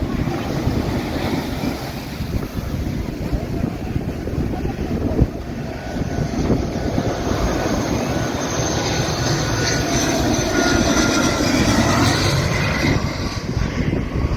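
Jet airliner engines: a steady rumble with a high whine that grows louder through the second half, as the plane comes close overhead.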